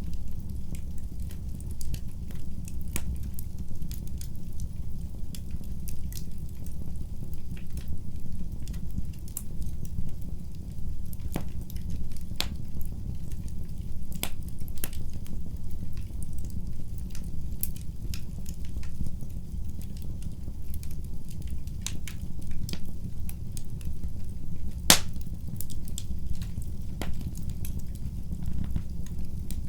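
Wood fire in a fireplace crackling and popping, with irregular sharp snaps over a steady low rumble of the flames; one louder pop near the end.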